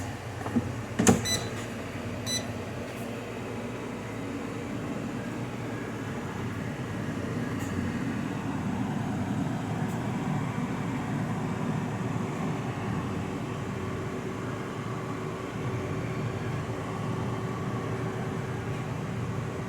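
A household appliance running with a steady hum, after a few sharp clicks in the first couple of seconds.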